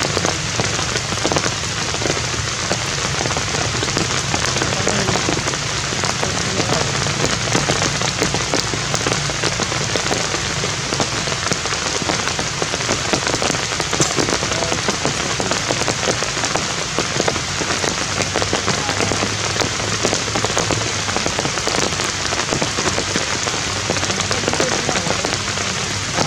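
Rain falling steadily: a loud, even hiss of many small drop impacts that keeps on without a break.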